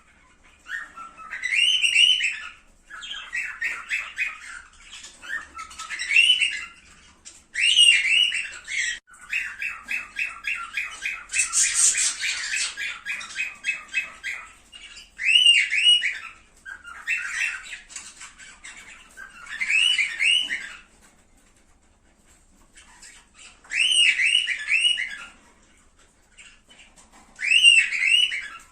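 Cockatiels calling: bouts of rapid chattering notes mixed with short rising-and-falling whistled calls, coming every second or two, with a pause of about two seconds past the middle and another near the end.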